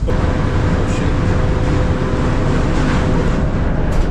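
Steady loud rumble of a passenger ferry underway, heaviest in the low end. A faint steady whine joins it just after it starts and stops about three seconds in.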